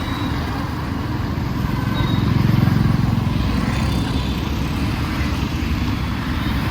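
Busy road traffic: a steady mix of cars and motorbikes, with one vehicle passing close and loudest about two to three seconds in.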